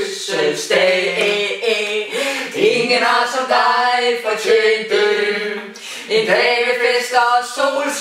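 Unaccompanied singing by a small group of men and women, a few held notes at a time.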